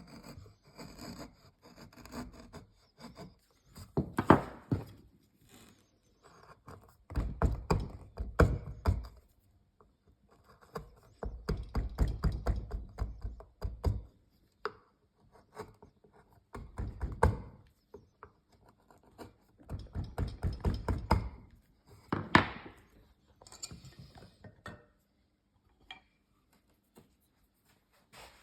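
Wood being worked by hand: irregular bursts of rubbing and rasping on a wooden lamp base, punctuated by sharp knocks of wood, each burst lasting a second or two with short pauses between.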